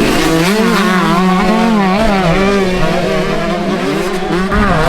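Several motocross bike engines revving at once, their pitch constantly rising and falling as the riders work the throttle.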